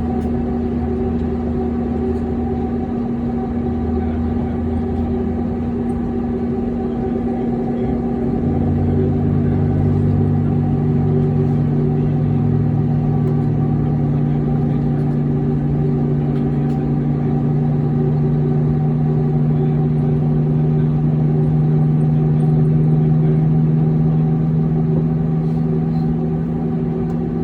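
Airliner's jet engines and air systems heard from inside the cabin, a steady hum of several constant tones at low thrust. About eight seconds in, a lower tone joins and the sound grows slightly louder, as the engines pick up a little thrust.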